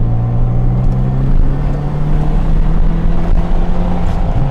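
2G Mitsubishi Eclipse's four-cylinder engine pulling under load, its pitch rising slowly and steadily, then dipping briefly near the end before picking up again.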